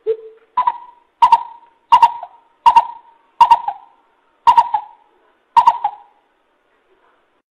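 Coucal (bubut) calling: a loud series of eight deep hoots, the first lower and the rest a step higher, a bit more than one a second, stopping about six seconds in.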